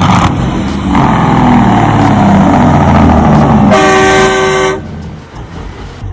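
Semi-truck engine running, with a truck air horn blowing one steady blast of about a second a little past halfway; the sound then drops away.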